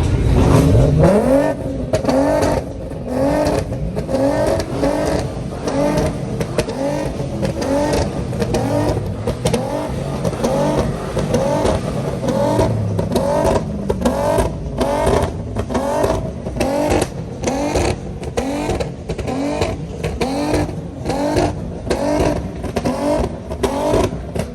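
Car or truck engine revved over and over in quick blips, its pitch sweeping up with each one, about one and a half times a second.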